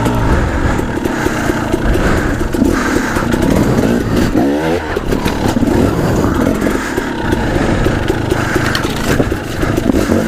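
Two-stroke KTM 300 dirt bike engine being ridden off-road, its revs sweeping up and down with the throttle, most strongly around the middle, while the bike clatters and knocks over rough rocky ground.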